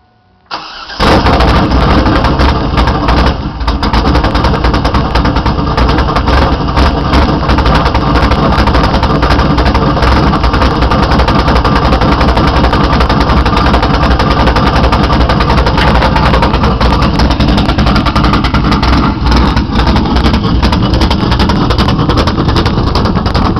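2000 Pontiac Trans Am WS6's LS1 V8, fitted with a T-Rex cam and with the exhaust cutout open, cranks briefly about half a second in. It fires about a second in and settles into a loud, uneven, loping idle on a cold start.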